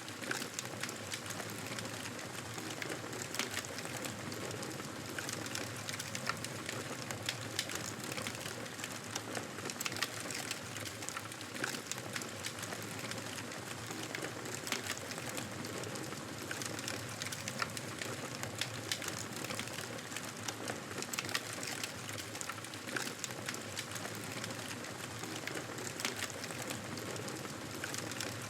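Wood fire in a fireplace crackling, a steady soft hiss with frequent small pops and snaps scattered at random.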